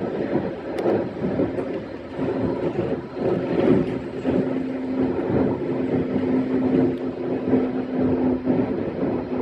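E131-series electric train running along the line, heard from the driver's cab: a continuous rumble of wheels on rail with a steady hum that becomes clearer about four seconds in.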